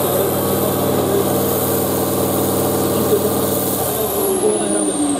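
Truck engine running at high revs, then the revs dropping about four seconds in, with a high whistle that falls along with them.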